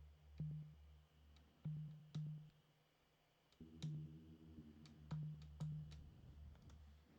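Critter & Guitari Bolsa Bass synthesizer playing a handful of short, low bass notes with gaps between them, one held a little longer about four seconds in, with faint clicks alongside.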